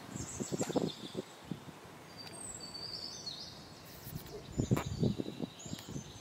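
Small birds chirping in short high calls and quick slides, over bursts of low rustling and knocking, the loudest of them about three-quarters of the way in.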